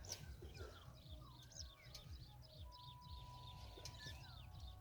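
Faint chorus of small birds chirping and twittering, with one long even whistle about midway, over a low rumble.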